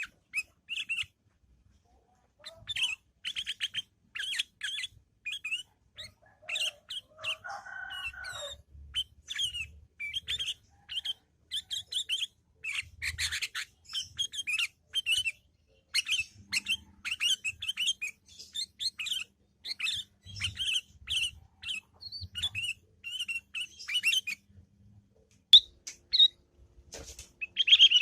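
Sooty-headed bulbul (kutilang) chattering in its fast ngriwik style: rapid runs of short, high chirps, over and over with brief pauses. This is the bird in full song (gacor). A lower, harsher call comes in briefly about 7 to 8 seconds in.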